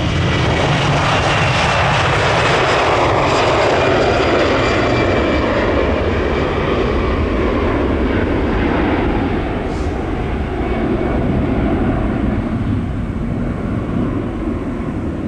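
Jet airliner passing close by: a loud engine roar with a high whine that sweeps down in pitch as it goes past, then slowly fades.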